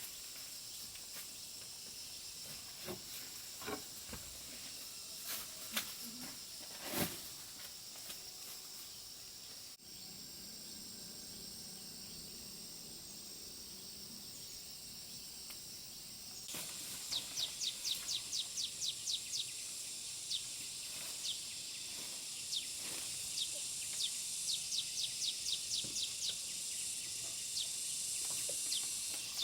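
Countryside ambience: a steady high-pitched insect hiss, with scattered sharp knocks and taps in the first third. From a little past halfway a bird calls in two quick runs of short notes that each sweep downward.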